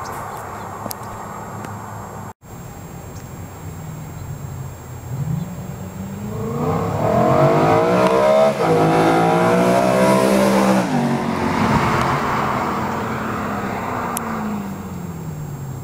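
BMW E92 M3's V8 through a Borla rear-section exhaust, accelerating hard with the engine note climbing. There is a brief break about eight and a half seconds in, then the note holds high before falling away in pitch and level.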